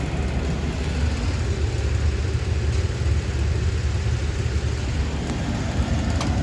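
Rheem gas furnace running with its burners lit and its blower motor on: a steady low rumble, with a couple of faint clicks.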